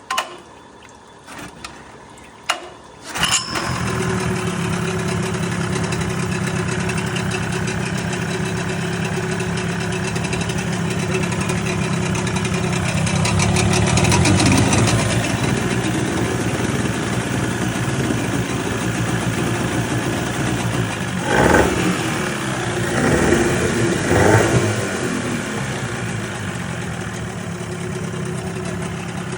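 Outboard boat motor starting for the first time after a repair: a few short knocks, then it catches about three seconds in and runs steadily. It revs up for a while around the middle, and near the end gets a few short bursts of throttle before settling back to a steady run.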